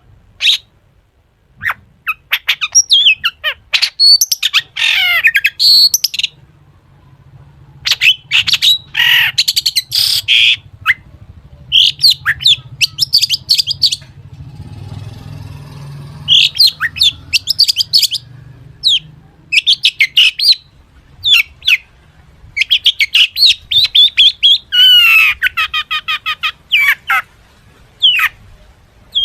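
Long-tailed shrike (cendet) in full song: rapid runs of sharp chirps, trills and sweeping notes mixed with mimicked phrases of other birds, broken by a pause of about two seconds midway.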